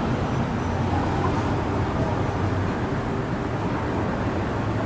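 Steady low background rumble, with faint indistinct voices in it.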